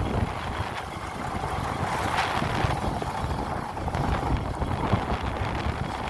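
Wind buffeting the microphone outdoors: an uneven, gusty rumble with no clear tones.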